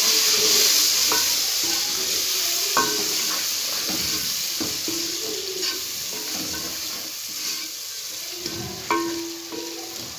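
Chopped tomatoes sizzling in hot oil with fried onion and spice masala as a wooden spoon stirs them. The sizzle is loudest at first and eases off. A few knocks of the spoon against the metal pot ring briefly.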